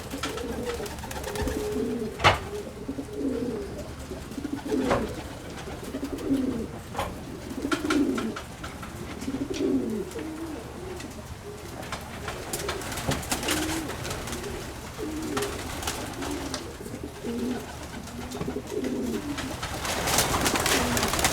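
Several domestic pigeons cooing over one another in a loft, low repeated coos overlapping throughout, with scattered sharp clicks and a brief rustle near the end.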